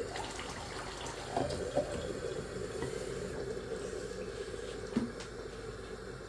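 Steady running water, with a few light clicks.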